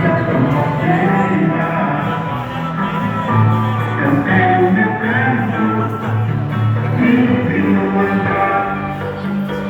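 Live band music: an instrumental passage of the song, with sustained bass notes under several pitched instruments.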